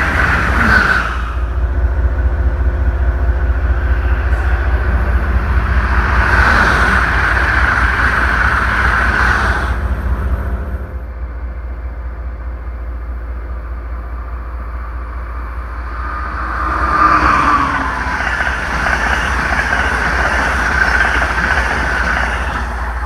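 Diesel passenger locomotive idling with a steady low rumble, while an Amtrak passenger train runs past on the adjacent track with wheel-on-rail noise. The rumble drops in level about eleven seconds in, and near the end another train goes by close by, its sound falling in pitch as it passes.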